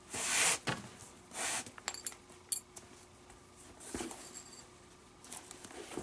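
Leather lace being drawn through the lace holes of a baseball glove during relacing, in a few short pulls, with light metallic clicks and clinks about two seconds in.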